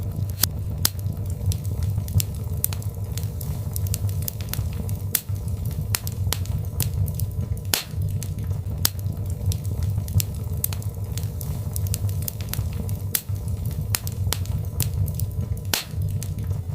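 Birch logs burning in a fireplace, crackling with many irregular sharp pops over a steady low rumble of the flames.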